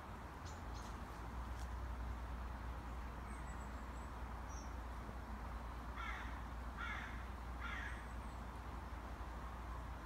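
A bird crying three times, the calls about a second apart a little past the middle, with a few faint thin high chirps before them. A steady low rumble runs underneath.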